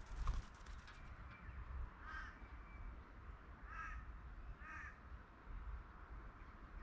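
A crow cawing three times, short harsh calls spread over a few seconds. A short clattering noise sounds near the start.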